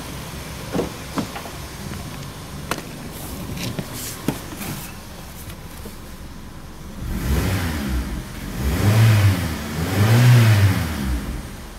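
Suzuki Swift 1.5-litre four-cylinder engine with about 132,000 km on it idling, with a few sharp clicks and knocks over it, then revved three times, each rev rising and falling back to idle.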